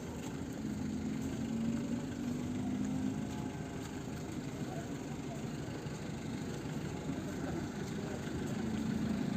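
Vehicle engine idling steadily, with a low hum, and faint voices in the background.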